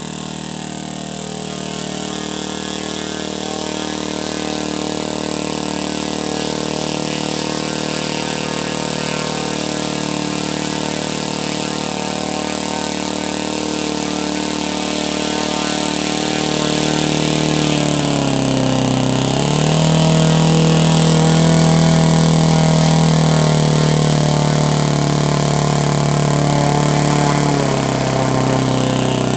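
OS 91 four-stroke glow engine of a large RC model Spitfire running during a warm-up. It runs steadily at first; about two-thirds of the way in it dips briefly, then is throttled up to a higher, louder speed. It is eased back down near the end.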